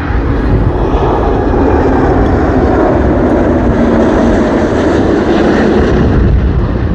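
An Air France jet airliner passing low overhead on its approach to land: a loud, steady jet-engine rumble, with a faint tone that drops slightly in pitch as it goes by.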